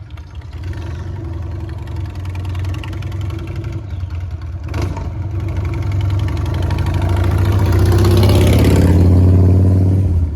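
Harley-Davidson motorcycle's V-twin engine running, growing steadily louder to a peak about eight to nine seconds in, then falling off suddenly near the end. A sharp click sounds about five seconds in.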